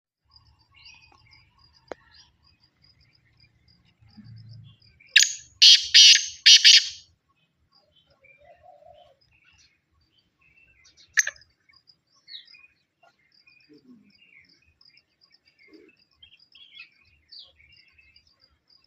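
Loud, harsh bird calls: four screeching notes in quick succession, then a single one a few seconds later, over faint, high chirping.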